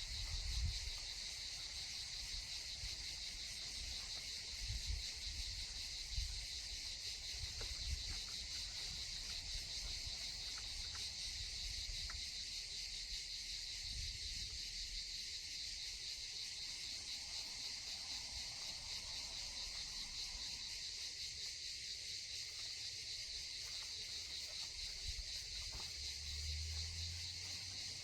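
Insects chirping steadily in a high-pitched continuous chorus, with a few brief low thumps or rumbles, the loudest near the start.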